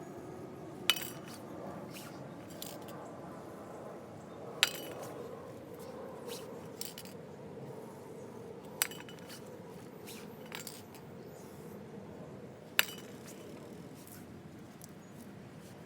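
Metal tools or parts clinking against metal in sharp, separate strikes, four loud ones a few seconds apart with lighter taps between, over a steady low hum.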